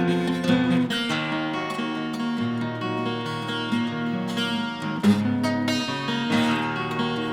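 Twelve-string acoustic guitar playing an instrumental piece, with chords struck every second or so and left ringing, bright with overtones.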